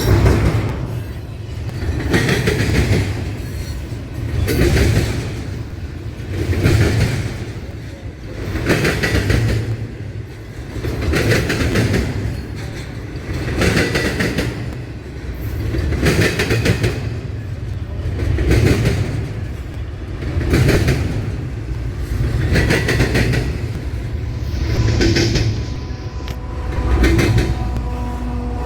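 Train cars rolling past over the rail diamond crossing, the wheel clatter swelling and fading in an even rhythm about every two seconds as each car goes over. Faint steady high tones come in near the end.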